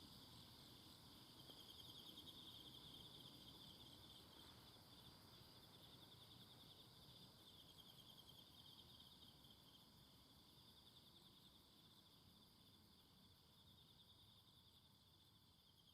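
Faint, steady chorus of insects singing in the forest: a continuous high, finely pulsing trill over soft background hiss, slowly fading away.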